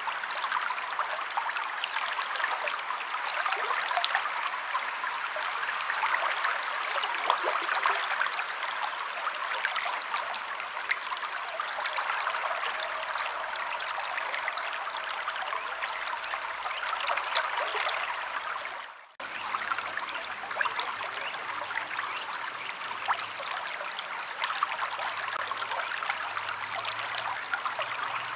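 River water flowing steadily over rocks, with a few faint, short bird chirps. The sound dips out for a moment about two-thirds of the way through, then resumes.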